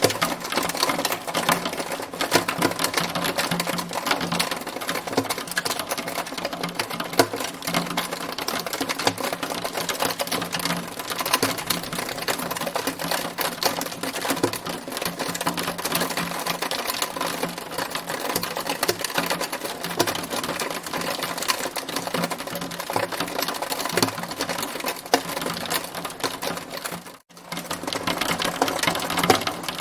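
Hailstones striking a hard surface in a dense, rapid, continuous patter of sharp ticks; the sound drops out for a moment near the end.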